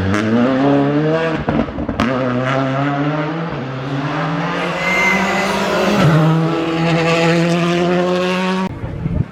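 Skoda Fabia R5 rally car's turbocharged four-cylinder engine at full throttle, rising in pitch through several quick upshifts with sharp pops at the changes. It then holds a steady high note and cuts off suddenly near the end, with a brief tyre squeal about halfway.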